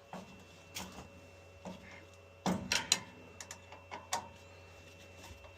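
Irregular clicks and knocks of hand tools and parts being handled during reassembly, with a cluster of louder knocks about halfway through, over a faint steady hum.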